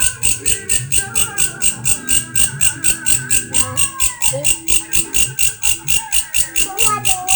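A grasshopper-like insect (belalang) calling in a steady, even pulse of about four to five chirps a second, an unusual-sounding call. Faint voices or music can be heard underneath.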